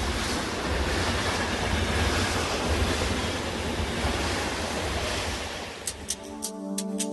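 Steady rushing noise with a low rumble, like surf or wind, that stops about six and a half seconds in as music with a light ticking beat and sustained tones comes in.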